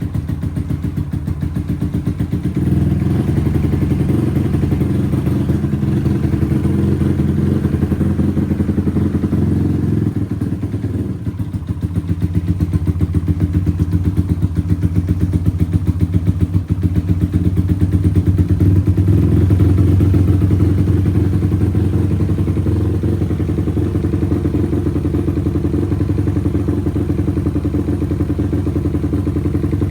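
Single-cylinder four-stroke engine of a SYM VF 185 with a 67 mm big-bore piston, running at a fast idle while warming up from a cold start. The idle rises and falls in level a few times.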